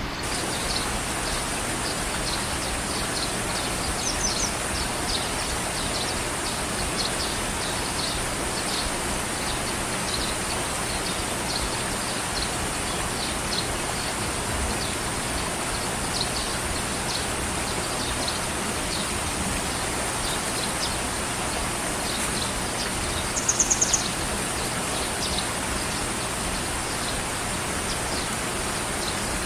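Steady outdoor ambience: an even rushing hiss, with short high chirps scattered throughout and a quick rapid trill of about five notes near the end.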